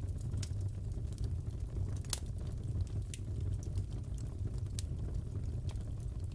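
Fireplace fire crackling: a steady low rumble with scattered sharp pops, the loudest one about two seconds in.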